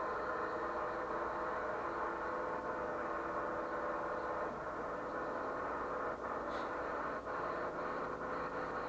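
Drag cars' engines idling near the starting line: a steady, unchanging drone of several held tones, with a few faint ticks in the second half.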